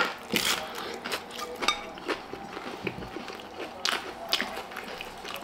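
A person biting into a slice of pizza and chewing it, a run of small irregular clicks.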